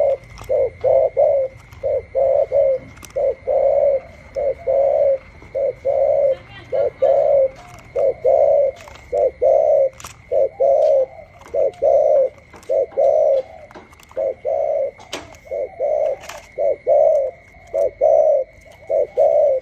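Caged spotted doves cooing over and over, with low coo notes following one another about one to two a second without a break. Two birds call in answer, one with a smaller voice and one with a bigger voice.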